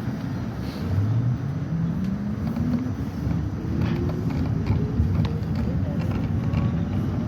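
R68 subway train accelerating: a motor whine climbs steadily in pitch over a few seconds above a loud low rumble of wheels on rail.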